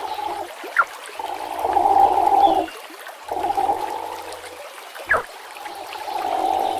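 River water rushing and gurgling in surges that come and go every couple of seconds, with two short, sharply downward-sliding platypus calls, one about a second in and one about five seconds in.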